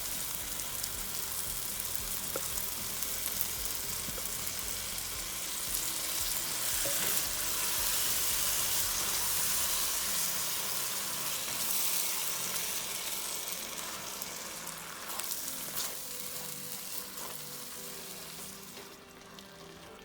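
Onion-tomato masala sizzling in hot oil in a pan while spinach puree is added and stirred in. The sizzle swells about halfway through and dies down near the end.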